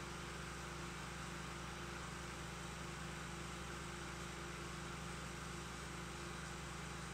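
Steady hiss with a low, unchanging electrical hum: the noise floor of an old optical film soundtrack, with no other sound on it.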